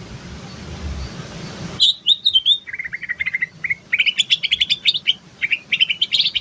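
A cucak ijo (green leafbird) sings a rapid chattering 'terotol' song of quick chirps that starts about two seconds in and keeps going. Before it there is a low rumbling noise.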